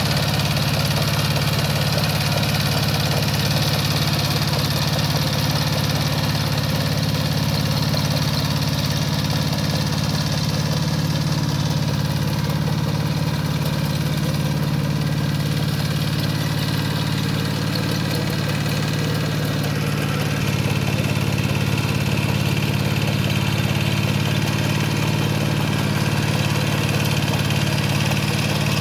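Engine of a Kubota K700 power tiller running steadily, its note shifting slightly and getting a little louder about two-thirds of the way in.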